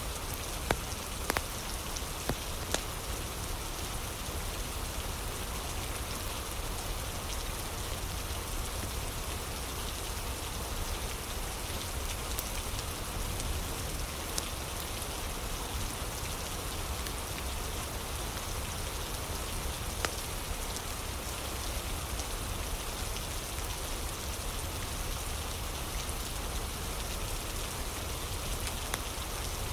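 Steady heavy rain ambience, with a few scattered sharp pops and crackles of a wood fire.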